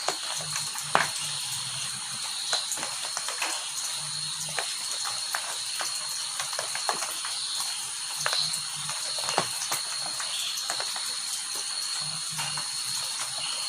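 Rain falling, with scattered sharp drips and taps over a steady hiss. Under it runs a steady high-pitched drone, and short low calls come every few seconds.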